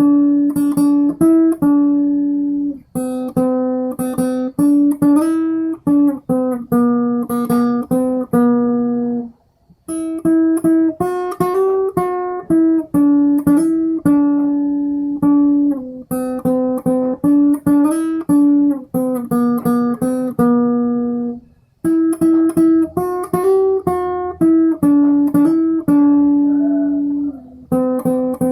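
Acoustic guitar playing a plucked single-note melody in phrases. The playing stops briefly twice, about a third of the way in and again about three quarters of the way through.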